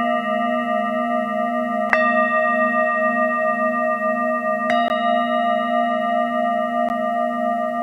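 Singing bowls ringing with long, wavering sustained tones; a bowl is struck about two seconds in and again about five seconds in, with a lighter tap near the end.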